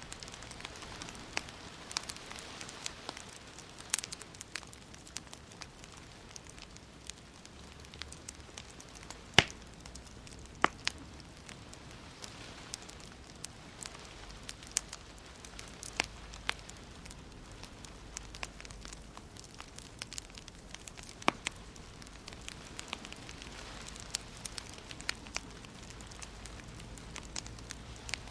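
Wood fire burning in a fireplace, crackling steadily with frequent small snaps over a soft hiss; a sharp louder pop about nine seconds in, and a few more spread through.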